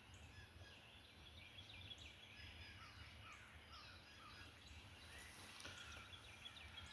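Faint birdsong: many short bird chirps and calls scattered throughout, over a steady low background hum.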